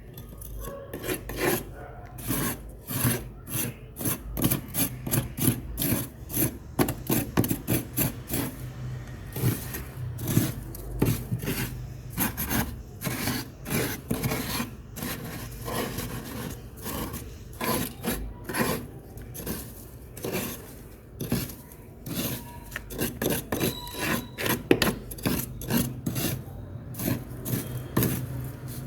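Refrozen freezer frost being scraped in quick, repeated rasping strokes, many to the second.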